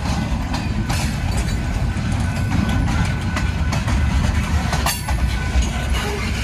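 A train rolling past, with a steady heavy rumble and irregular clicks as its wheels pass over rail joints.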